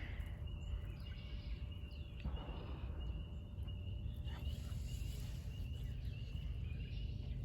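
Outdoor ambience: a low steady rumble of wind on the microphone, with a faint steady high-pitched trill and a few faint bird chirps.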